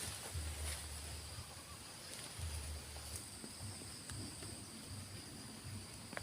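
Forest insects, crickets, chirping steadily in two high, continuous tones, over irregular low rumbles and a single click near the end.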